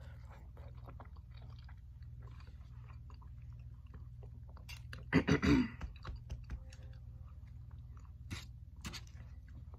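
Close-miked chewing and wet mouth sounds of a person eating soft cooked food, with a short burst of louder knocks about five seconds in and a few sharp clicks near the end.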